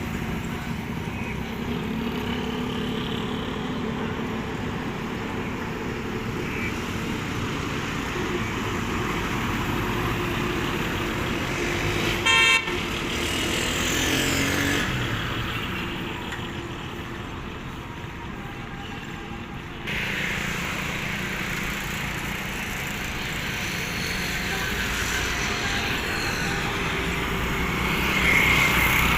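Vehicle engine and road traffic noise, with one short, loud horn blast about twelve seconds in.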